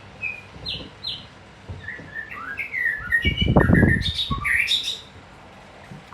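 A songbird chirping in a quick run of short rising and falling notes, busiest and loudest about halfway through. Under the busiest stretch there is a burst of low rumbling noise.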